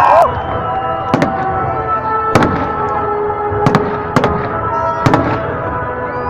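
Fireworks shells bursting overhead, a sharp bang about every second, some six in all, over music playing with sustained notes.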